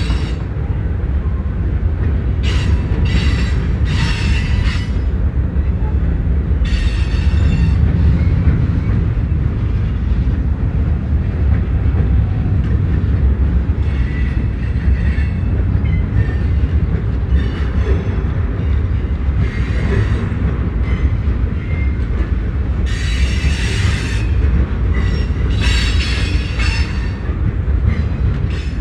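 Freight train rolling past with a steady low rumble from its cars, and high-pitched wheel squeal that comes and goes several times.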